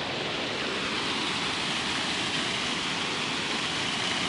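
Steady rushing of running water, an even hiss with no distinct splashes, slowly getting a little louder.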